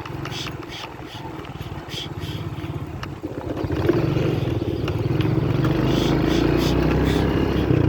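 Small motorcycle engine running under way, getting louder about halfway through as the throttle opens, then holding steady.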